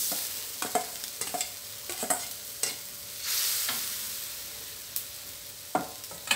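Pickled bamboo shoots tipped into a hot wok of chicken frying in curry paste and oil, hissing and sizzling as they land. A metal spatula clinks and scrapes against the wok several times as they are stirred, with a louder burst of sizzling about three seconds in.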